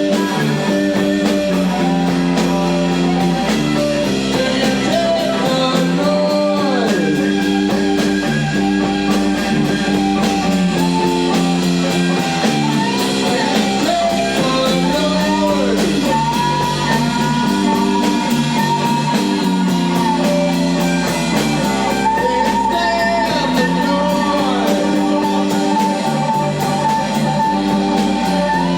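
Rock band playing a song live, guitar to the fore: held chords underneath and sliding, bending lead lines above, at a steady loud level.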